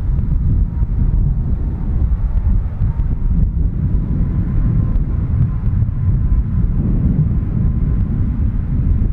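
Jet airliner's engines running with a loud, steady low rumble and a faint steady whine.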